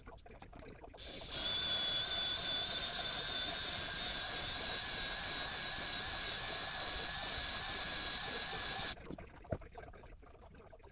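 Compressed air hissing steadily with a high whistling tone, starting about a second in and cutting off suddenly some eight seconds later, followed by a single click.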